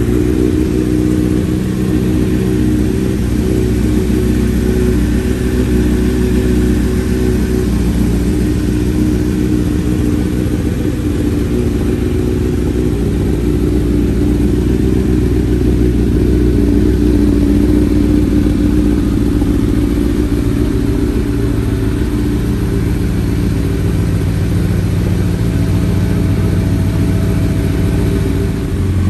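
2007 Honda CBR1000RR's inline-four engine idling steadily through an aftermarket slip-on exhaust, with its freed-up throttle closed. The engine runs fine after the salvage bike's first start.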